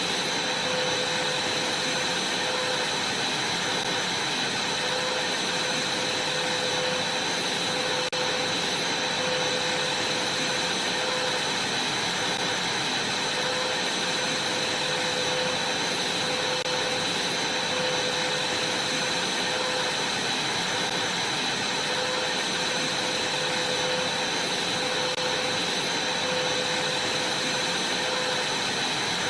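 Vacuum cleaner running steadily, a constant rushing noise with a high whine from its motor that holds the same pitch throughout.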